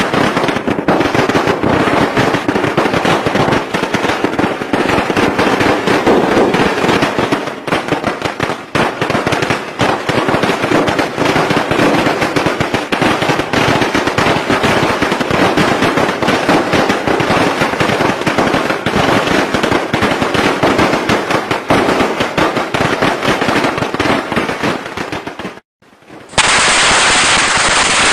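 Strings of firecrackers going off in a dense, continuous rattle of rapid pops. Near the end the sound cuts out for about half a second, then another string of firecrackers starts up.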